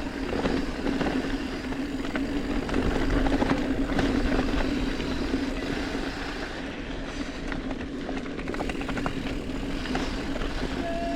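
Mountain bike rolling fast along a dirt trail: tyre and gravel noise with many small clicks and rattles, a steady hum, and low wind rumble on the microphone.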